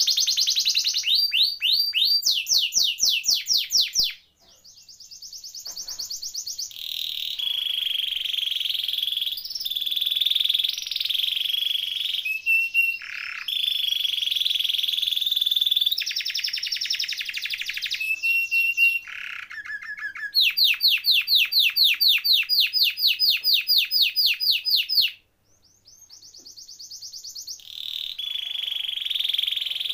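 Domestic canary singing long phrases of fast rolling trills, each made of rapidly repeated high notes, with short pauses about four seconds in and again near 25 seconds.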